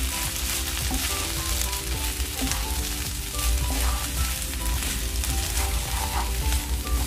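Thai fried rice sizzling steadily in a hot pan as it is stirred, over light background music.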